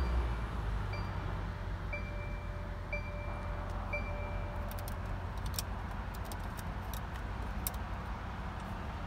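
Mercedes-AMG S63's twin-turbo V8 idling with a steady low rumble just after a cold start-up, heard from inside the cabin. Over it a dashboard warning chime beeps once a second, five times, then stops, and a few sharp clicks follow as the dashboard air vents are handled.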